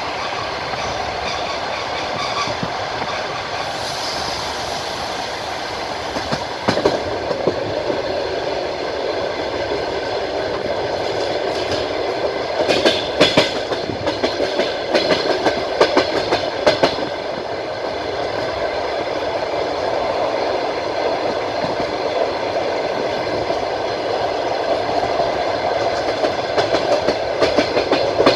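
Passenger train carriage rolling along the track: a steady rumble with groups of sharp clicks as the wheels pass over rail joints, clustered about halfway through and again near the end.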